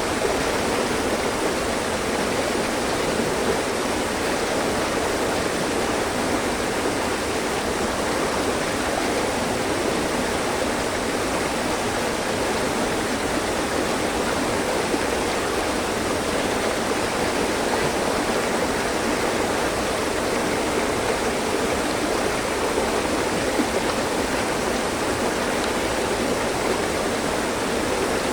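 Mountain stream running steadily over rocks, a continuous even rush of flowing water.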